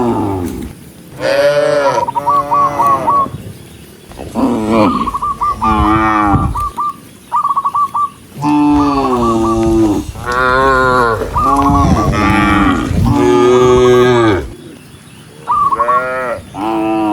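Several cattle mooing, one call after another and often overlapping, with hardly a break except for a short lull near the end.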